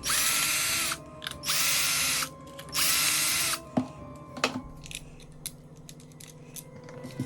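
Cordless screwdriver running in three short bursts, each spinning up quickly to a steady whine, backing out the screws of a power-tool battery pack's plastic case. After that come a few light clicks and knocks.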